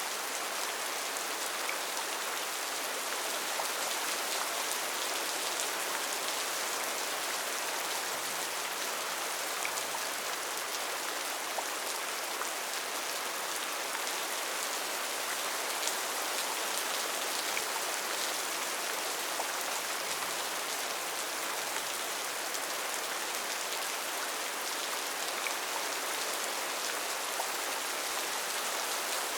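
Steady, even rain falling on a rainforest, a continuous hiss with many small drop ticks and no thunder.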